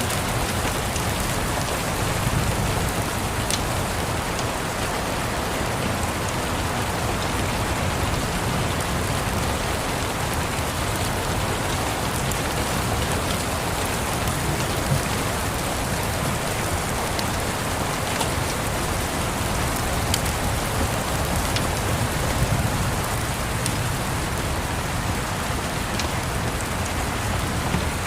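Steady rain, with a low rumble underneath and a few faint, sharp ticks scattered through it.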